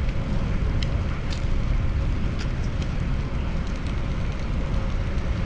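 Wind rumbling on the microphone of a moving bicycle ride, over steady street traffic noise, with a few faint ticks.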